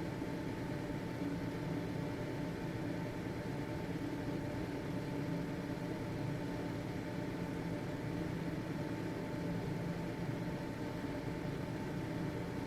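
Household ventilation fan running steadily: an even whoosh of moving air with a constant motor hum and a faint steady whine.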